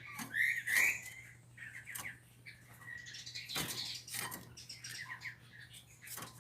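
Kept songbird chirping in short, repeated calls, loudest about a second in, with a few sharp knocks in between.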